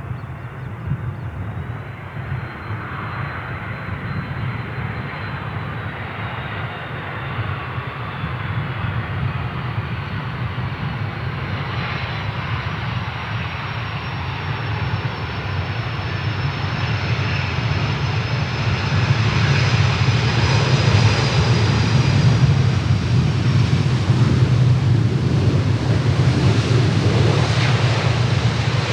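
Boeing 767-300ER on landing approach, its jet engines running with a steady high whine over the rumble, growing louder as it nears.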